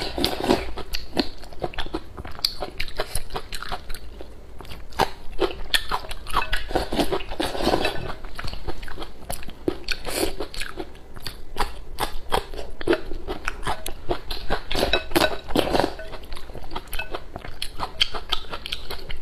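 Close-miked crunching and chewing of pickled green and red chili peppers, eaten with porridge: a dense, irregular run of crisp bites and chews.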